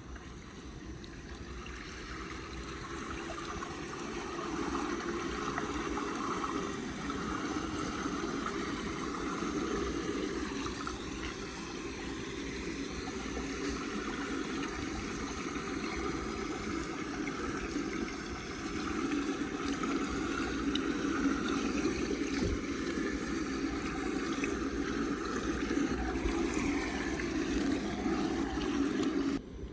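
Floodwater flowing and gurgling into a street drain as a steady rush of water. It grows louder over the first few seconds and cuts off abruptly near the end.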